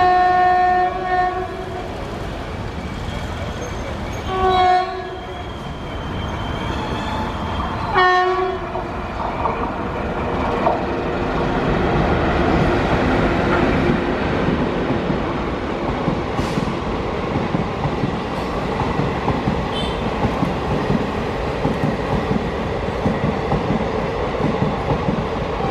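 WAP-4 electric locomotive's horn sounding three times, a long blast and then two short ones about four seconds apart, each a steady chord. Then the parcel train runs past close by, its wheels clattering over the rails.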